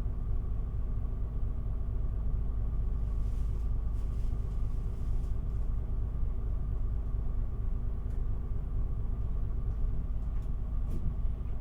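City bus diesel engine idling while the bus stands still, heard from inside the cabin: a steady low rumble and hum, with a few faint clicks near the end.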